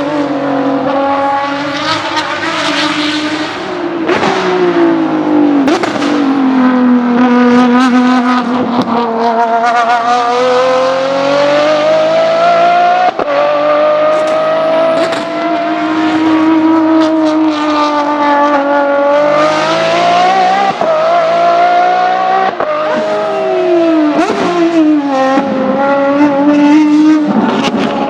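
Ferrari 599XX V12 track cars running hard on a race circuit, the engine note climbing under full-throttle acceleration and dropping in quick steps on the downshifts, several times over.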